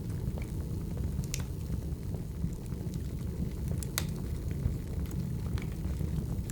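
Burning firewood: a steady low rumble of the fire with scattered sharp crackles and pops from the logs, the loudest pop about four seconds in.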